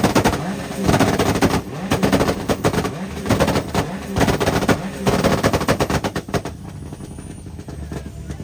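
A tuned car engine revved in repeated bursts, its exhaust crackling with rapid strings of pops and bangs, the kind of overrun backfire that throws flames from the tailpipe. The revving and pops die down about six and a half seconds in.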